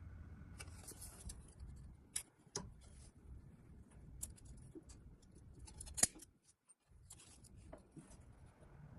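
Faint hand work on small parts: light scraping with scattered clicks, and one sharper click about six seconds in.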